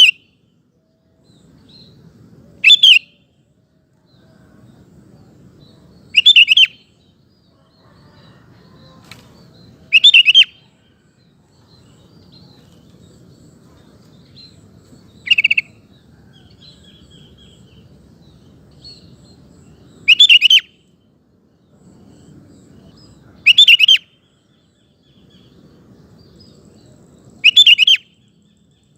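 Sooty-headed bulbul (kutilang) singing: seven short, loud, bubbly phrases, one every three to five seconds, with a faint low background noise between them.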